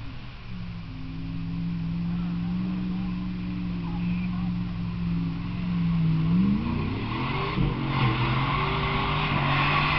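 Mud-bog truck engine held at steady high revs, then revving higher about six seconds in as its note climbs and wavers; a broad rush of noise joins the engine for the last couple of seconds.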